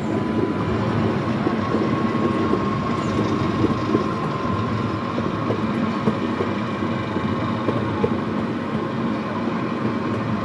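Small scenic-railway tourist train running along its track, heard from aboard: a steady rumble and rattle of wheels and carriages with small clicks, and a thin steady whine above it.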